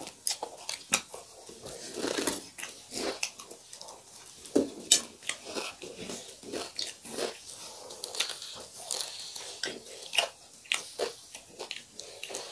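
Close-miked eating: wet chewing with many irregular crisp crunches of food in the mouth.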